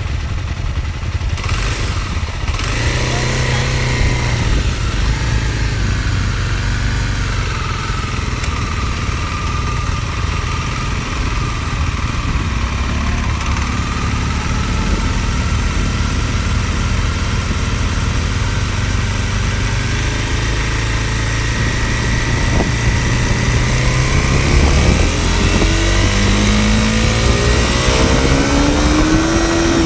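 Dual-sport motorcycle engine running under way, picked up close by a phone mounted on the bike. The engine note holds steady for most of the time, then rises in pitch as the bike speeds up near the end.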